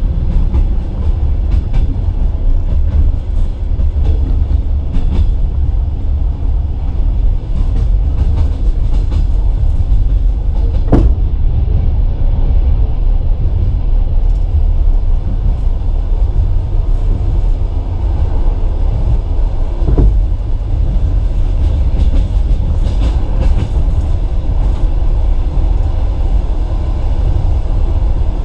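Passenger coach running along the track, heard from inside the carriage: a steady low rumble of wheels on rail with scattered clicks, and one sharp clank with a short ring about a third of the way in.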